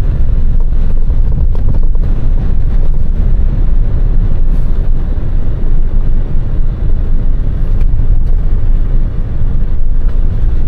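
Truck driving on the road, heard from inside the cab: a steady, loud, low engine and road rumble.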